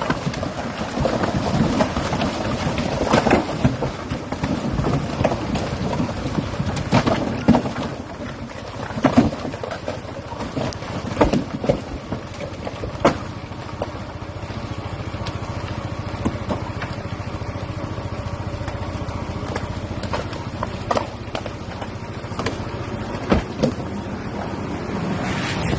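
Rockfall in heavy rain: rocks and earth tumbling down a slope, with many loud knocks of rocks striking over a rumble and the hiss of rain. The knocks thin out after about twelve seconds, leaving the rain, a few scattered knocks and a steady low hum.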